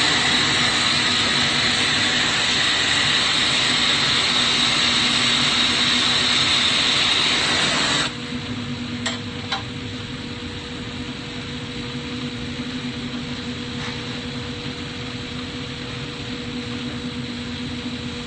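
Steady loud hiss of a glassworking torch flame, which drops abruptly about eight seconds in to a quieter steady hum with a low tone, broken by two light clicks soon after.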